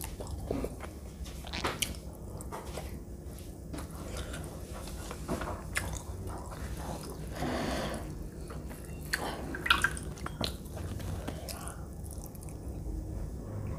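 Close-miked chewing and wet mouth sounds of a person eating soft, syrupy Indian sweets (mini gulab jamun and rasgulla) by hand. Scattered lip smacks and clicks, with a longer wet sound a little past halfway.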